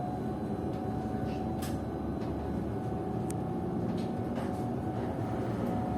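Cabin sound of a PKTS-6281.01 'Admiral' trolleybus under way: a steady low rumble with a thin, steady whine from its IGBT-controlled AC traction drive, and a few light clicks and rattles.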